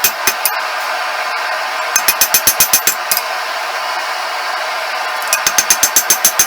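Hand hammer striking hot damascus steel on an anvil, drawing out the bar, in quick runs of about six blows a second with pauses between, each blow ringing. A steady rushing noise runs underneath.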